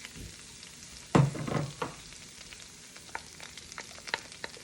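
Chopped onions sizzling in melted butter in a pan, a steady hiss with small scattered crackles. A short louder noise comes about a second in.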